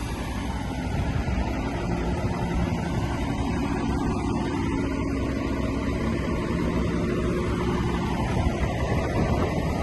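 Heavy diesel engine of earthmoving machinery running steadily under load, its pitch shifting slightly now and then.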